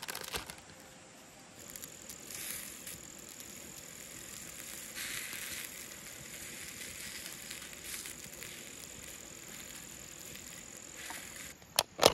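Insects keeping up a steady, high-pitched trill over a soft, uneven hiss, with two sharp clicks near the end.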